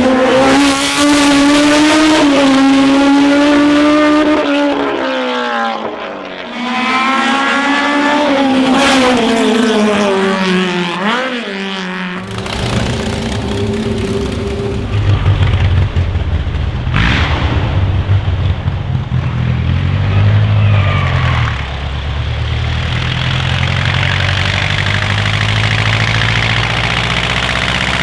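Racing car engine at high revs, its pitch falling and climbing again twice as the car lifts off and shifts gear. About twelve seconds in it gives way abruptly to the deep, rough low rumble of another car's engine.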